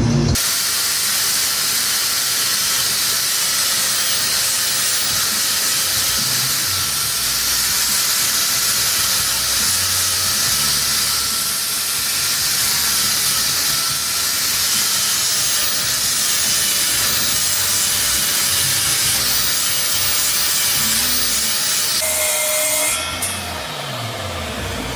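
Loud, steady hissing noise with a faint whine in it, which drops away near the end.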